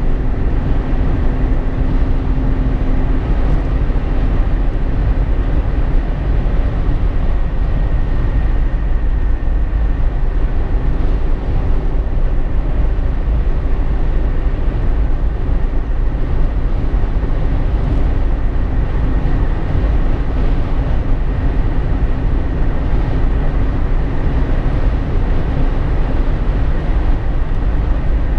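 Cabin noise inside a Jeep Wrangler JK on the road: a steady low rumble of tyres, engine and wind, with a faint steady hum over it.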